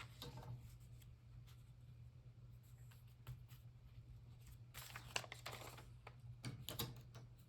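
Faint rustling and handling of paper, in scattered short strokes that cluster about five and about seven seconds in, over a low steady hum.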